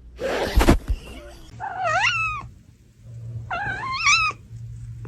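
A loud, noisy burst in the first second, then a cat meowing twice, two drawn-out calls that rise and fall in pitch, about two seconds apart.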